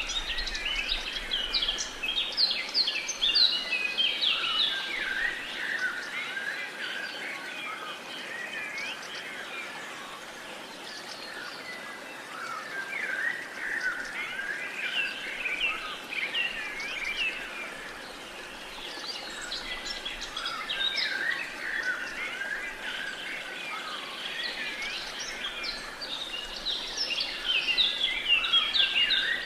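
A chorus of many birds chirping and trilling at once, with dense overlapping calls that swell and ebb in waves and are busiest near the start and end, over a faint steady hiss.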